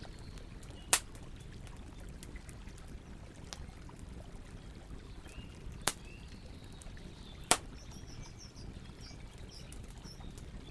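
Wood campfire crackling, with three sharp pops from the burning wood about a second in, near six seconds and at seven and a half seconds. Under it runs the steady rush of river water, and birds chirp faintly now and then.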